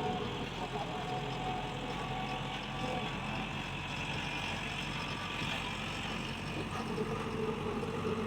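Heavy diesel engine of construction machinery running steadily, with an even low engine hum and faint higher whining tones over it.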